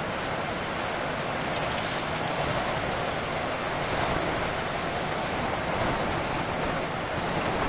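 Steady roar of strong wind and rough sea, with wind buffeting the microphone.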